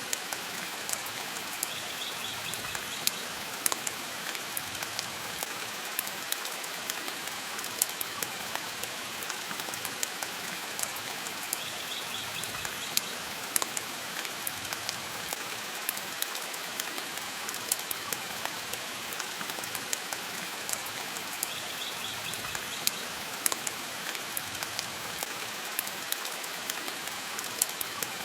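Steady rain hiss with a wood fire crackling, many sharp little pops scattered through it.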